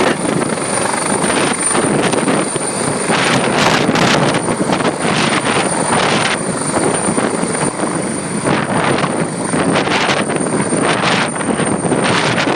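New Jersey State Police helicopter running, a loud steady rotor and engine noise with a thin high whine held over it throughout.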